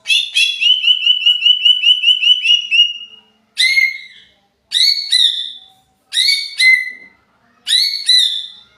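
Green leafbird (cucak ijo) singing in an agitated, excited state: a rapid run of about a dozen repeated whistled notes lasting about three seconds, then four short chirping phrases roughly a second apart.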